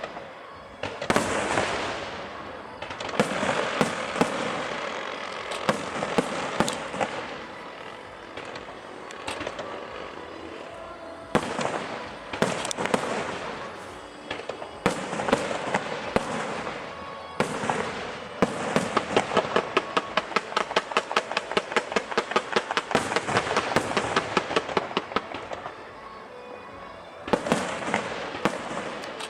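Aerial fireworks bursting overhead with crackling trails, in repeated booms throughout. About two-thirds of the way in comes a long rapid run of pops, several a second.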